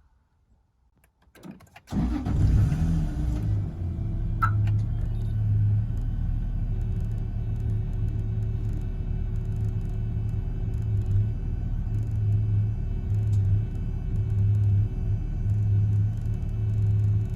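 Toyota Supra JZA70's 1JZ-GTE twin-turbo straight-six starting from a key turn, catching about two seconds in after a few faint clicks. It then settles into a steady idle with a low, pulsing rumble.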